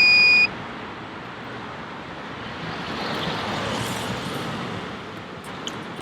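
A high, steady electronic beep cuts off about half a second in. It is followed by steady traffic noise that swells and fades again in the middle, as of a vehicle going past.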